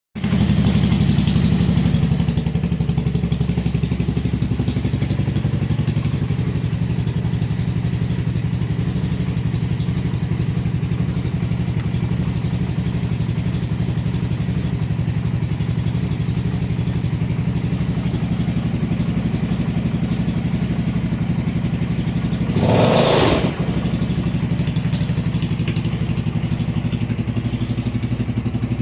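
250 cc motorcycle engine idling steadily. Near the end a brief loud rush of noise, about a second long, sounds over it.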